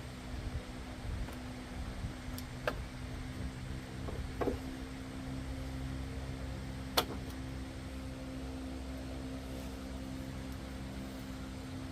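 A steady mechanical hum, holding one pitch, with a few sharp clicks and taps of work on metal; the sharpest click comes about seven seconds in.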